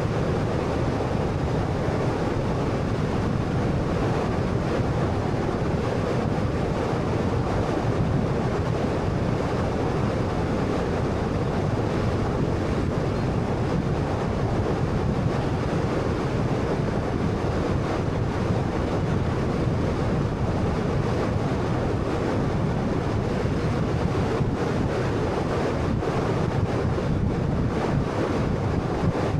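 Steady rush of tyre and road noise with wind from a moving car, even throughout with no sudden sounds.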